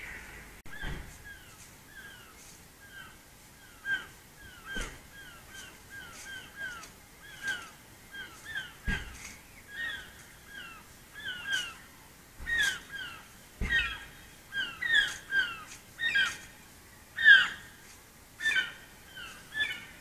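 A bird calling over and over in short, down-curving notes, a few a second, growing louder toward the end, with a few soft knocks between them.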